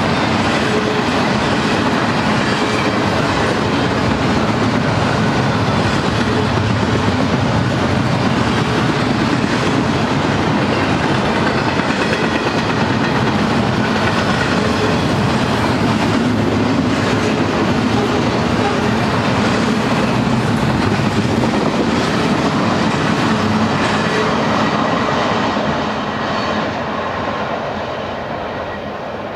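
Double-stack freight train's well cars rolling past, a steady rumble of steel wheels on the rails with repeated clacks. The sound fades near the end as the last cars go by.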